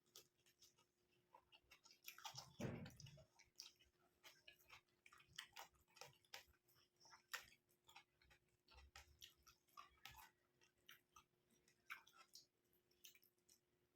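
Faint, close-miked chewing of curry and rice: scattered wet mouth clicks and smacks, with one fuller, louder mouthful sound about two and a half seconds in.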